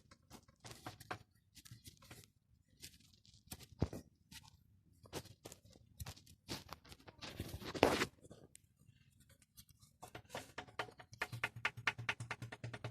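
Ford Explorer OHV engine running with a fast, regular metallic knocking from the cylinders, which the owner takes for piston knock. For the first ten seconds there are irregular sharp clicks and knocks; after that a steady low hum carries a rapid, even train of ticks.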